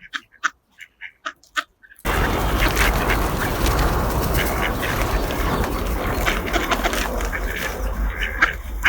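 Ducks quacking in short, separate calls. About two seconds in, a loud steady rushing noise with a low rumble starts abruptly, and the quacks continue over it.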